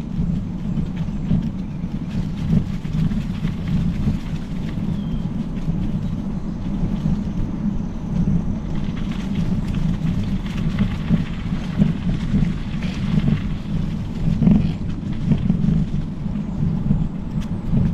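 Specialized Epic Pro mountain bike rolling along a trail: a steady low rumble of tyres and wind buffeting the microphone, with a few small knocks from the bike.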